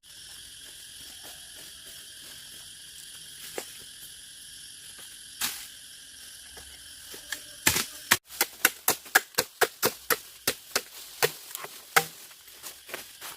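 Steady chirring of insects. From about eight seconds in it is joined by a run of sharp knocks, about three a second, that go on to the end.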